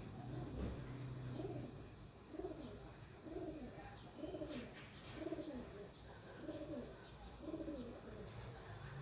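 A dove cooing: a rising-and-falling coo repeated about once a second.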